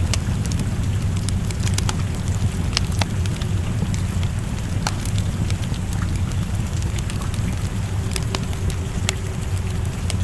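Wood fire crackling in a fireplace, with sharp irregular pops and snaps over a steady low rumble, and rain falling outside.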